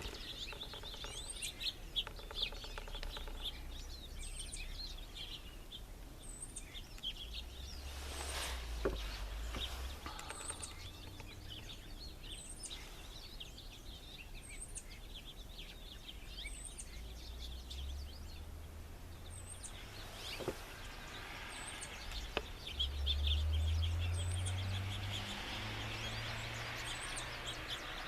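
Small birds chirping over a low outdoor rumble, with a thin high call repeating about every second and a half. About 23 seconds in, a low hum swells and rises in pitch.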